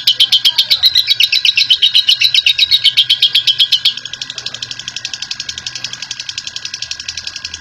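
Lovebird giving its long 'ngekek' chattering call: a fast, even string of sharp, high notes, about ten a second. About four seconds in, it drops in level and carries on as a softer series.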